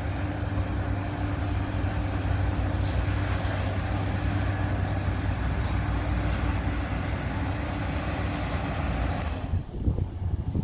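NJ Transit commuter train of multilevel coaches passing close by: a steady rumble and rattle of wheels on rail under a constant low hum from its locomotive. The noise drops away abruptly about nine and a half seconds in.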